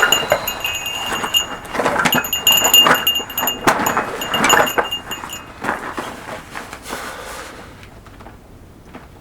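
A small metal bell jingling over and over, struck anew every second or so with some clicking, then fading out about three-quarters of the way through.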